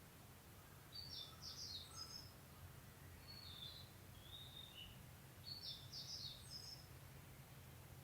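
A songbird singing faintly: the same short, high, quick phrase twice, about four seconds apart, with a few single notes in between, over a steady low rumble.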